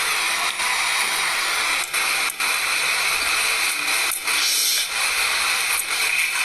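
Steady loud hiss of static noise, with a few brief dropouts.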